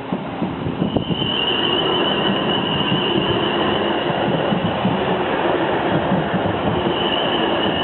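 Train running past at close range: a dense steady rush that builds over the first second, with a thin high squeal coming in about a second in, fading, and returning near the end.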